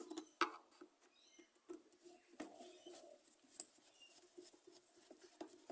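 A Phillips screwdriver undoing the screws that hold the carburettor on a leaf blower: a few scattered faint clicks and small squeaks.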